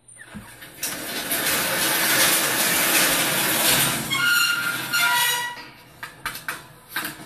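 Recorded train sound effect played back from a noise-conditioning sound CD: a loud rushing noise builds about a second in, a brief high-pitched tone sounds about four seconds in, and a run of sharp clicks follows near the end.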